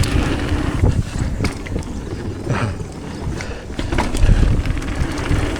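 Wind buffeting the camera microphone over the rumble of a downhill mountain bike's tyres rolling over a dirt trail, with several sharp knocks and rattles from the bike over bumps.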